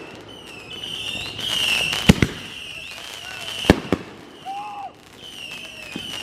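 Consumer fireworks going off: two sharp bangs, about two seconds in and a second and a half later, over a high wavering whistle.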